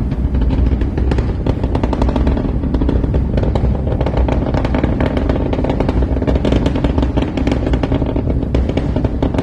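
Rocket launch heard from several miles away: a continuous low rumble overlaid with rapid, irregular crackling from the rocket exhaust.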